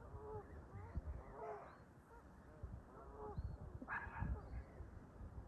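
Canada geese calling in a flock, a busy run of short honks, with two louder, harsher calls about one and a half and four seconds in.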